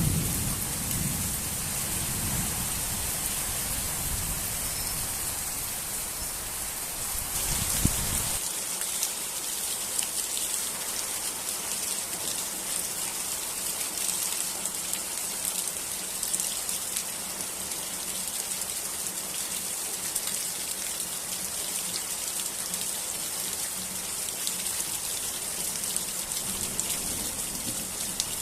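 Steady rain falling, a dense hiss of drops pattering on surfaces. A low rumble of thunder runs under it for the first eight seconds or so, then cuts off abruptly.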